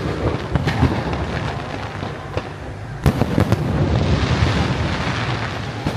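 Fireworks display: a rapid string of bangs and crackles over a continuous low rumble, with the loudest cluster of reports about three seconds in.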